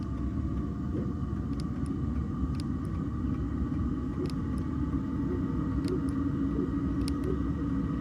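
5 kW Maxspeedingrods diesel air heater running: a steady fan and burner rumble, with sharp ticks roughly once a second from its fuel pump.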